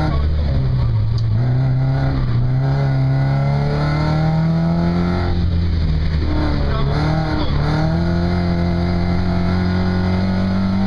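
Ford Fiesta rally car's engine heard from inside the cabin, pulling hard with the revs climbing. The revs drop sharply about five seconds in and dip again a couple of seconds later, then climb once more.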